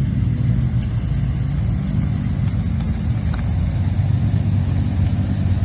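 A car engine running at a steady, low rumble, holding an even pitch without revving up or down.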